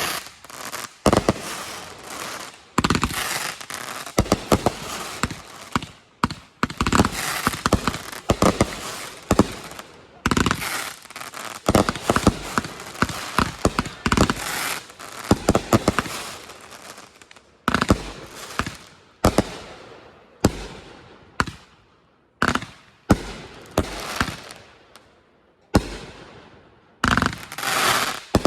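Consumer fireworks going off: a long run of sharp bangs and pops in quick clusters, many followed by crackling, with brief lulls between volleys.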